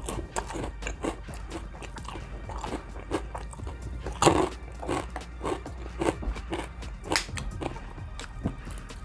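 Close-miked wet chewing and lip-smacking of a person eating soft rice and coconut-milk vegetables, a run of short sharp mouth clicks with a louder smack about four seconds in.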